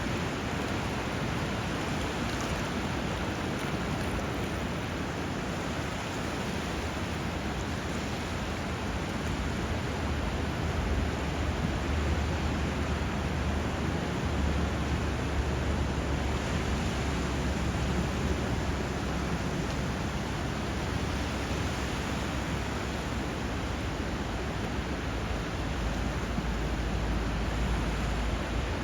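Steady rush of flowing river water and sea surf, an even hiss with a low rumble underneath that grows stronger partway through.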